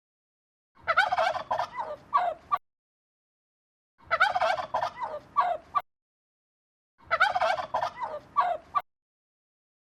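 A large bird calling three times, each call a rapid, warbling run of about two seconds, with complete silence between the calls.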